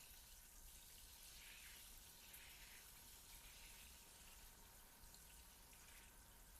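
Near silence: a faint high hiss with soft, slow swells of swishing.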